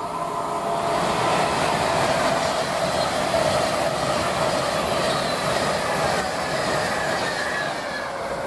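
Avanti West Coast express passenger train passing at speed on the electrified main line: a rush of wheel-on-rail noise that builds over the first second, holds, and eases off near the end.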